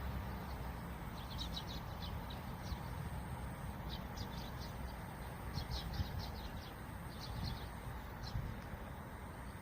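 Small songbird chirping in quick bursts of short, high notes, several bouts with pauses between, over a steady low wind rumble.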